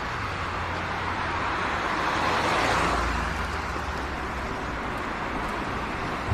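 A car passing by on the road, its noise swelling to a peak about two and a half seconds in and then fading, over a low steady hum.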